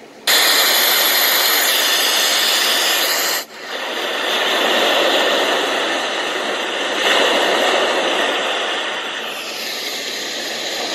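Six-sound white noise machine playing a loud, steady hiss through its small built-in speaker. It starts suddenly just after switch-on, drops out for a moment about three and a half seconds in as it changes to another sound, and then carries on with the hiss shifting slightly in tone.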